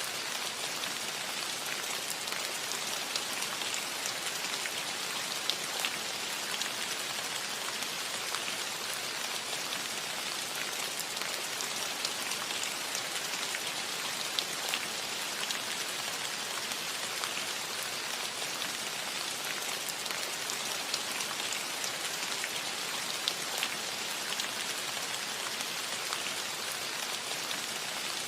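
Steady rain falling on a roof, an even hiss with scattered sharper taps of individual drops.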